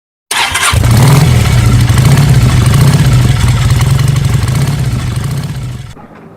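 Motorcycle engine running loud and steady with a fast, even pulse. It cuts in abruptly near the start and fades away shortly before the end.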